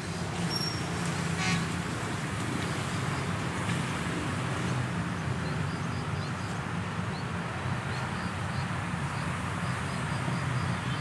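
Steady low rumble of passenger trains running into the station on the tracks, with a brief high toot about a second and a half in and faint bird chirps.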